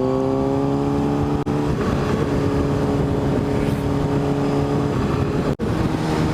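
Motorcycle engine under way, rising in pitch as it accelerates for the first second or so, then holding a steady cruise with wind rush on the microphone. The sound cuts out briefly twice, about a second and a half in and near the end.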